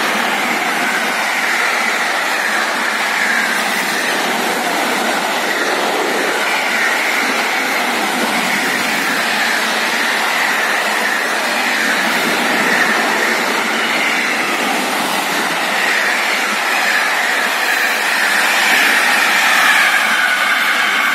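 Container freight train's wagons rolling past at speed: a steady loud noise of steel wheels on the rails, with a faint wavering high-pitched tone over it.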